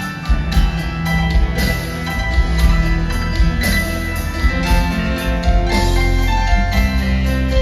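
Live rock band playing, with a drum kit keeping a steady beat under long held instrument notes.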